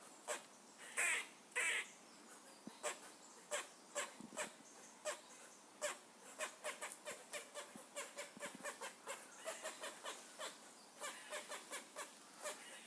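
Squirrel chattering: a long run of short, sharp chirps, several a second, with two longer squeaky calls about a second in.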